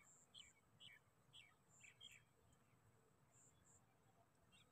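Faint bird chirps: a quick series of short high notes over the first two seconds, then near silence with a few faint high peeps.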